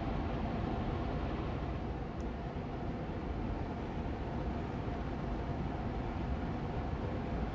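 Austin Air Allergy Machine air purifier fan running steadily on medium speed: an even rush of air with a gentle hum, strongest in the low end, and a faint steady tone in the middle.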